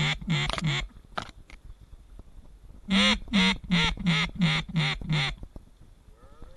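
Mallard duck call blown in quick runs of quacks, about three a second: the tail of one run at the start, then a second run of about eight quacks a few seconds in, calling to ducks flying high overhead.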